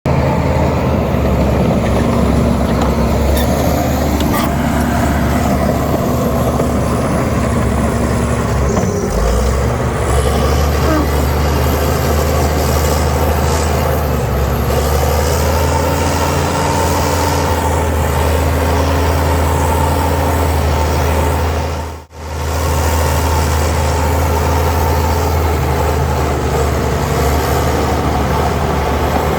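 Heavy diesel earthmoving equipment running steadily under load, a deep, even engine drone. It cuts out for a moment about two-thirds of the way through, then carries on the same.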